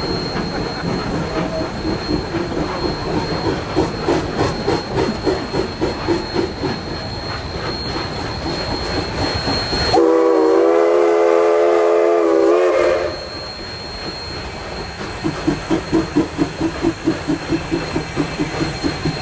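Narrow-gauge steam locomotive working, its exhaust beating in a steady rhythm. About ten seconds in, its steam whistle blows one long blast of about three seconds, the loudest sound here, and then the exhaust beats resume.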